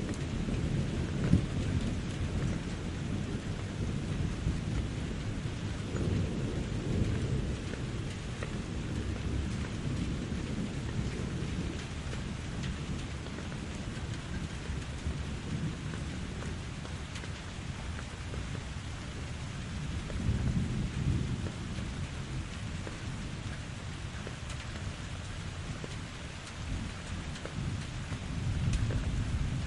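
Steady rain falling in a forest, with low rolling thunder that swells and fades a few times, loudest near the start, about two-thirds through and near the end. A single sharp tap stands out about a second in.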